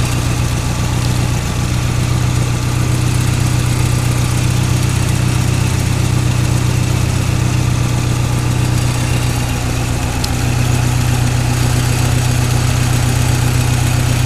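Fiat 124 Spider's 2-litre twin-cam four-cylinder engine idling steadily through an aftermarket header and exhaust system with a turbo tube and catalytic converter.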